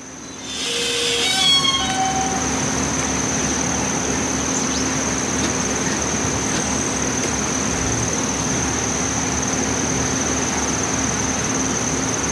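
Steady running noise of a moving train, with a constant high whine over it. A brief falling run of tones comes about a second in.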